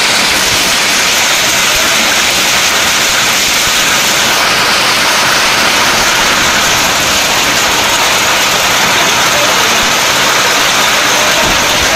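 Heavy rain mixed with hail pouring down onto paved ground, a loud, steady hiss.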